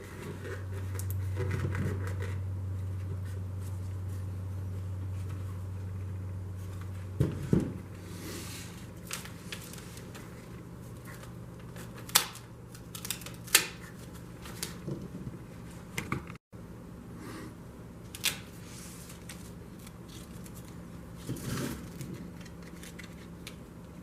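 A low steady hum for about seven seconds, then a series of scattered sharp clicks and knocks, like small objects being handled on a bench.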